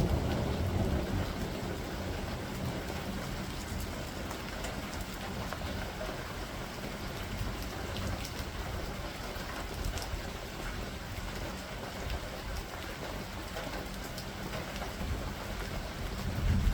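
Steady rain falling in a thunderstorm, with scattered drip ticks. A low rumble of thunder fades out over the first couple of seconds, and another begins right at the end.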